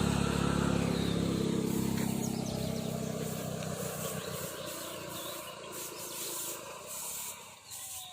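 A motor vehicle's engine passing and fading steadily into the distance, with a few faint short high chirps over it.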